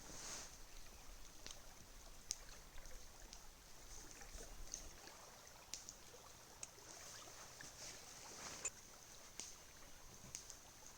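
Faint campfire crackling: scattered sharp pops and snaps over a steady soft hiss, with the loudest pops a little over two seconds in and near the end.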